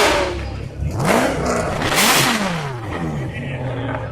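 A sports car's engine being revved several times, its pitch climbing and falling with each rev, the loudest rev about halfway through.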